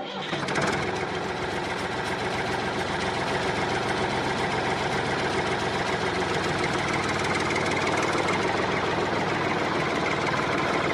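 Small motor of a homemade miniature machine running steadily, with a fast even rattle.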